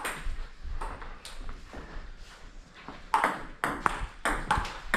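Table tennis ball clicking off paddles and table in a rally, a sharp hit every half second or so, growing louder from about three seconds in.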